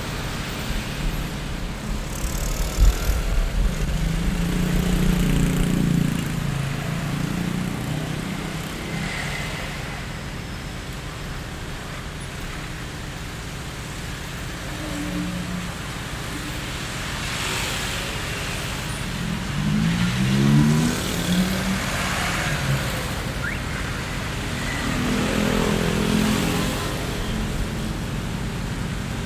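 Street traffic ambience: a steady bed of road noise with cars passing one after another, the engine sound swelling three times. The middle pass rises in pitch as a vehicle accelerates.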